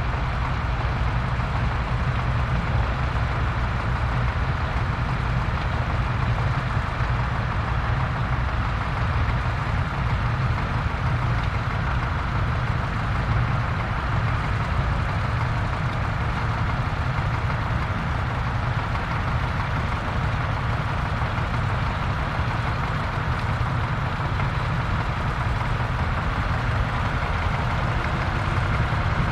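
Vintage farm tractor engine running steadily at a constant speed, a low, even engine note with no change in revs.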